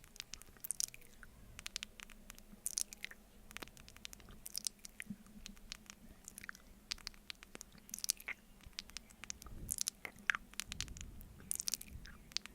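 Close-miked wet mouth sounds of eating honey off a spoon: sticky smacks and clicks of lips and tongue in irregular little clusters.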